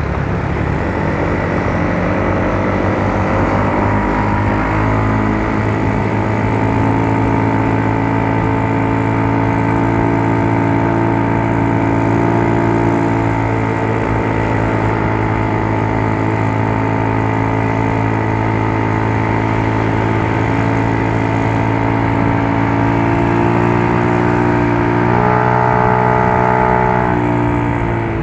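Yamaha Mio Soul scooter's single-cylinder four-stroke engine running under way. Its pitch rises over the first few seconds, holds steady, and shifts again near the end.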